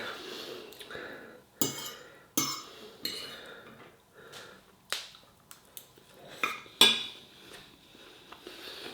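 Cutlery clinking and scraping against a plate or dish during a meal: several separate sharp clinks with short rings, the loudest about seven seconds in.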